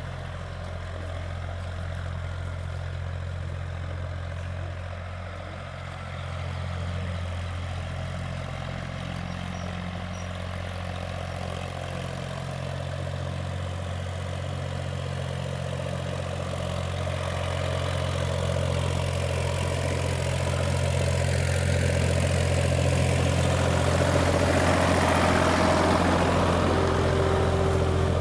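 Escort 355 tractor's diesel engine running steadily with a low hum, growing louder through the second half as it works a disc harrow.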